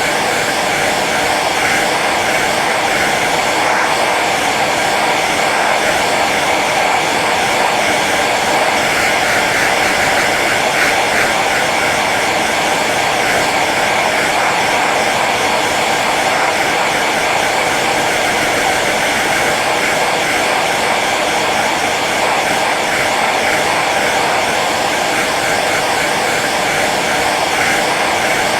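Hair dryer running steadily on its low setting, a continuous even blowing whir of fan and air.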